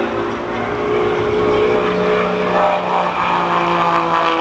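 An aircraft engine passing overhead, its steady drone of several tones falling slowly in pitch as it goes by.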